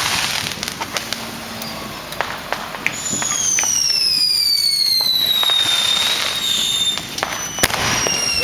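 Consumer fireworks going off, a scatter of sharp pops and cracks. About three seconds in, a long high whistle from a firework slowly falls in pitch for about three seconds, and a shorter whistle comes near the end.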